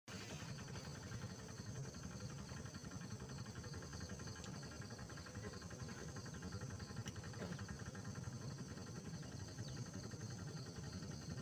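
Faint steady outdoor background noise: a low rumble with a thin high hum above it and a few faint ticks.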